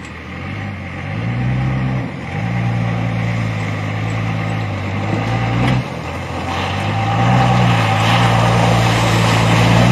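Chevy twin-turbo engine running under load: its pitch climbs, drops back sharply about two seconds in and again near six seconds, then climbs and holds, with a steady rushing noise over it.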